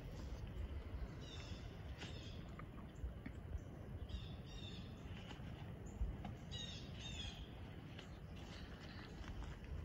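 A bird calling faintly in short, high double notes, three times, over scattered rustles and twig snaps of footsteps in dry leaf litter.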